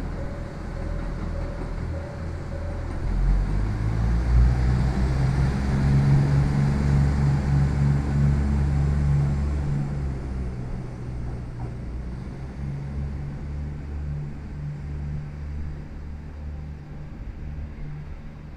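Electric commuter train running on the tracks below: a low rumble with a steady low hum that swells about three to four seconds in and then slowly fades as the train draws away.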